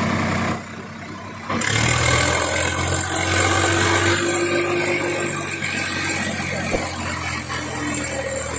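Heavy diesel engine running steadily, dropping away for about a second near the start and then coming back louder.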